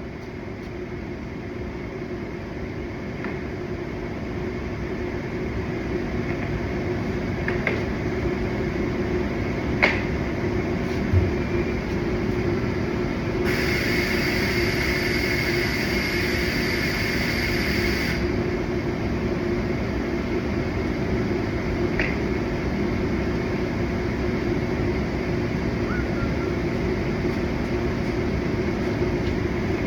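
A steady machine hum that slowly grows louder over the first several seconds, with a few sharp clicks and a hiss lasting about five seconds near the middle.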